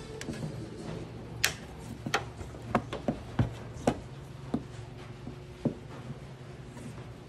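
About a dozen sharp clicks and knocks at irregular intervals, over a faint steady low hum.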